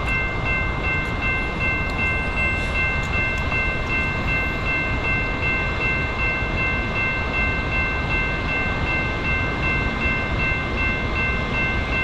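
A train passing on the line with a steady rumble, and over it a high-pitched ringing of three tones that pulses rapidly and evenly.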